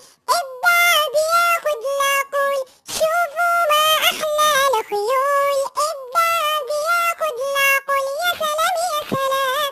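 Children's song: a high, electronically processed singing voice holding and bending notes over backing music, with a few brief pauses between phrases.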